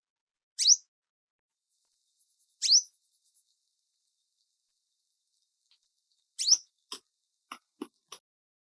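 Three short chirps that each sweep quickly upward in pitch, the first two about two seconds apart and the third about four seconds later, followed by a few light clicks near the end.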